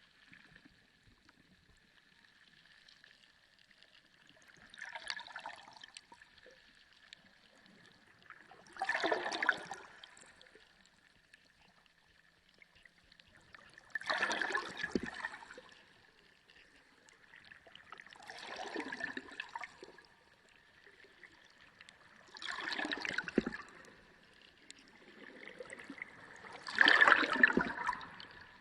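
Sea water surging and gurgling in six swells about four to five seconds apart, each lasting a second or two, the last the loudest. A faint steady high tone runs underneath.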